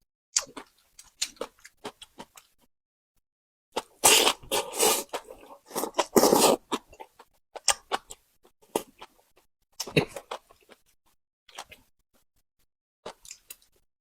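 Close-miked eating: a person chewing and biting with short, scattered smacks and crunches, and a louder, denser run of crunching from about four to six and a half seconds in.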